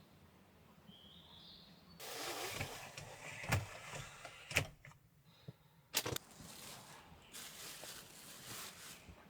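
Rustling and handling noise with several sharp knocks, the loudest a close pair about six seconds in. A short rising bird chirp comes about a second in.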